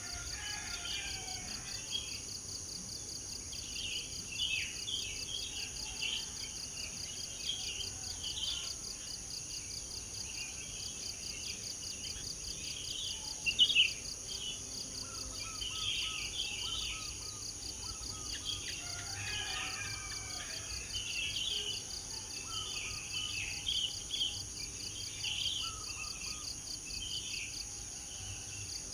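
Many birds chirping and calling in short, scattered notes over a steady high insect drone with a fast pulse, like crickets or cicadas. About halfway through there is one brief louder sound.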